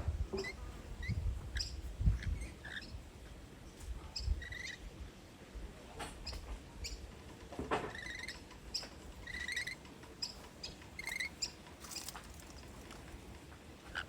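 Rainbow lorikeets giving short, scattered chirps and quick chattering trills while feeding on apples in the tree, with a few brief knocks.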